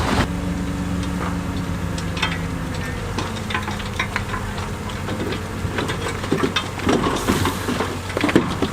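Diesel engine of heavy earthmoving machinery running steadily, with many sharp clanks and knocks over it, more of them in the second half.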